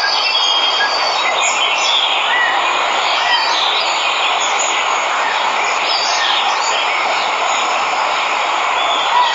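Steady rush of a waterfall, with jungle birds chirping in short calls over it.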